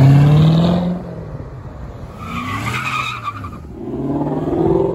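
Chevrolet Corvette C7's V8 accelerating away, its pitch rising for about a second before it falls off. A couple of seconds of tire squeal follow, and near the end another car's engine revs up.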